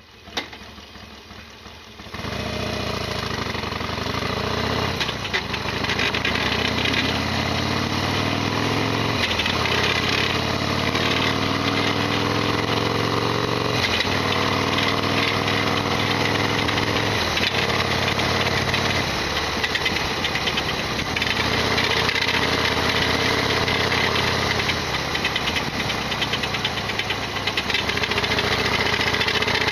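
Harley-Davidson Sportster XL1200R's air-cooled V-twin under way, getting louder about two seconds in, then rising in pitch and dropping back several times as it shifts up through the gears. A rattling clatter runs through it, the loud abnormal noise the owner says this bike always makes.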